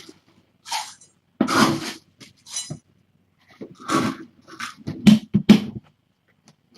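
Kittens crying, about five short mews or squawks with pauses between them.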